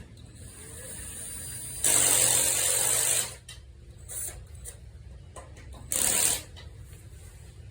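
Cordless drill used as a driver to run in bolts: a long burst of about a second and a half, a brief blip, then a second shorter burst.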